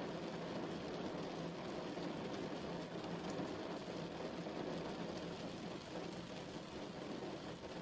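Steady rain falling, an even patter of drops with a deep, low-pitched wash.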